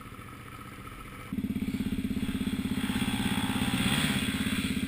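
Dirt bike engine running. About a second in the throttle opens and the engine pulls at higher revs, its exhaust pulses rising slightly and holding steady.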